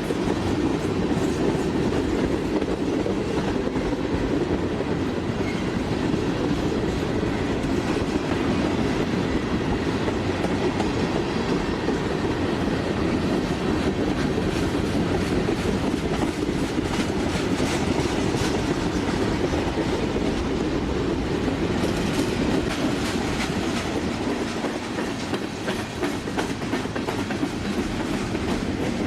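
A train's railroad cars rolling steadily past on the track, wheels clicking over the rail joints, with more clicks in the second half.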